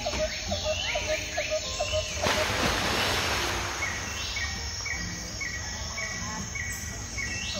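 Outdoor garden ambience with birds calling: a quick run of short low chirps, then a higher short call repeated about twice a second. A wash of hiss comes in suddenly about two seconds in and fades over a few seconds.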